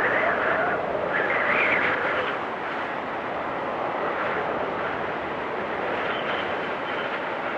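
Wind storm blowing and whistling, with gusts swelling twice in the first couple of seconds, then a steadier rush with a faint high whistle near the end.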